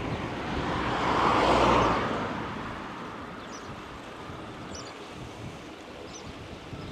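A car passes by, its tyre and engine noise swelling to a peak about a second and a half in and fading away by about three seconds.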